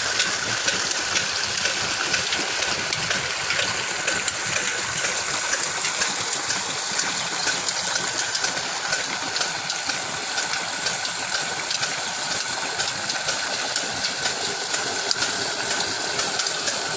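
An antique engine running steadily, a continuous rushing hiss with a steady high whine over it and faint fine ticking.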